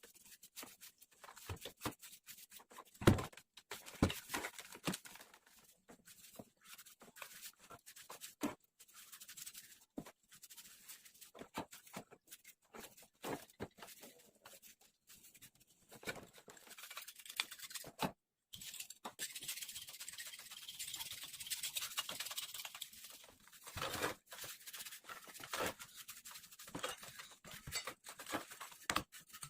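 Scattered light clicks, knocks and scraping from small parts being handled, with one harder knock about three seconds in and a stretch of high hiss a little past halfway.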